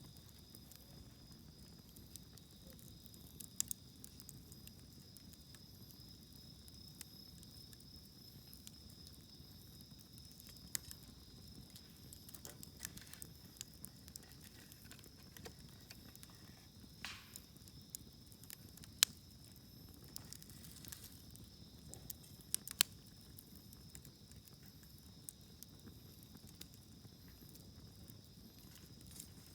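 Wood campfire burning quietly, crackling with scattered sharp pops, a few of them louder, over a steady high-pitched insect trill.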